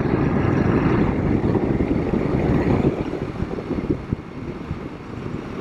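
Royal Enfield Himalayan 452's single-cylinder engine running steadily while riding, mixed with wind rushing over the microphone. The sound eases off a little about halfway through.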